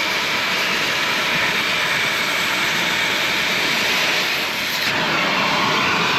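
Cutting torch running with a steady, loud hissing roar while cutting through a bulldozer track pin, with a brief dip about four and a half seconds in.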